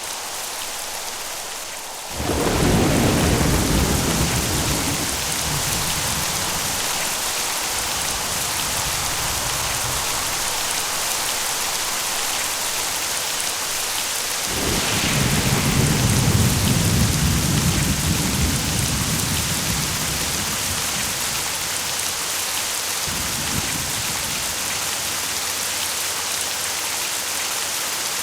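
Steady rain with rolls of thunder: a sudden crack about two seconds in that rumbles away over several seconds, a longer rumble that swells about halfway through, and a brief one near the end.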